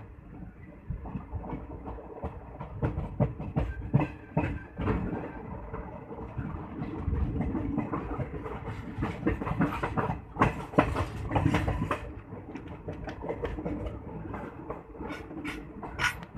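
Moving passenger train running along the rails: a continuous rumble with frequent, irregular clacks from the wheels on the track.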